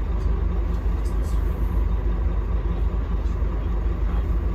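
Scania K310UB city bus running steadily, a continuous low engine and road rumble.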